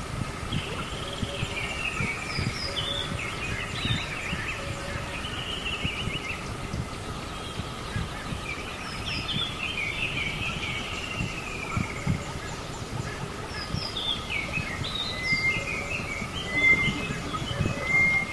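Birds chirping and calling, with repeated short chirps and longer sweeping calls, over a steady faint tone.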